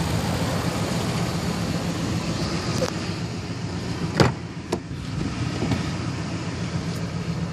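2015 Nissan Titan's 5.6-litre V8 idling steadily, with a few short clicks and a knock about three to five seconds in.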